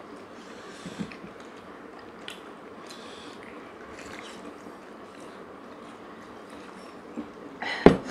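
Close-miked eating of large steamed chicken dumplings (taipo): soft chewing and wet, squishy mouth sounds with scattered small clicks. Near the end a single sharp knock on the table stands out as the loudest sound.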